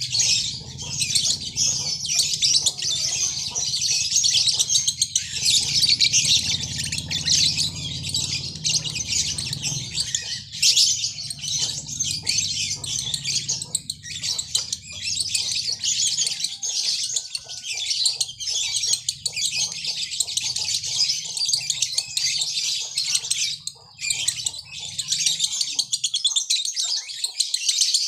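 Lovebird singing a long, unbroken run of rapid, high-pitched chattering, the continuous 'ngekek' song that lovebird keepers prize. A low steady hum runs underneath and stops shortly before the end.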